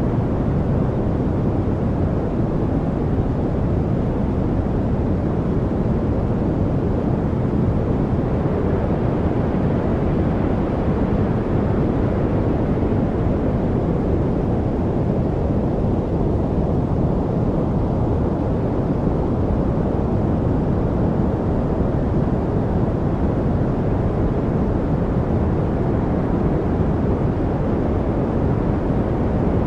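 Steady deep rushing noise, a low-weighted study noise track with its energy in the bass and little hiss up top, with no pitch, rhythm or breaks.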